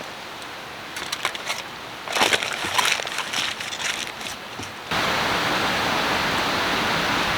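Irregular clicks and clatters for a few seconds, then, about five seconds in, a steady hiss of a pot simmering over a campfire starts abruptly.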